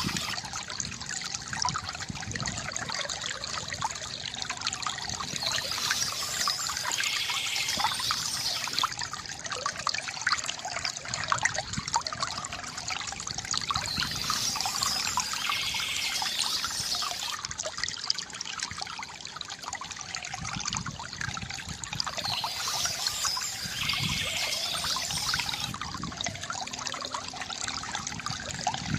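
Water trickling and splashing steadily from a bamboo fountain, with a short higher sound returning about every eight seconds.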